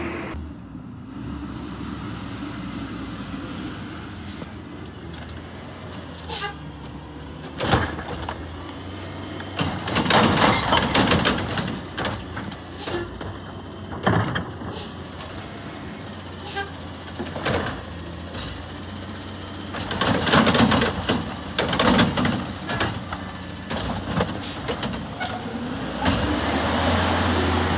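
Peterbilt 520 Heil recycling truck with a Curotto-Can running steadily, with a series of sharp knocks and bangs and two long bouts of clatter as carts are picked up and dumped. Near the end the engine revs up, its pitch rising.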